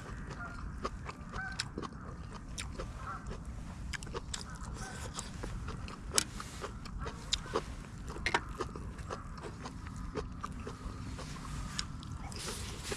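Geese honking now and then, over scattered sharp clicks and crunches of someone eating crunchy fried food, with a steady low wind rumble underneath.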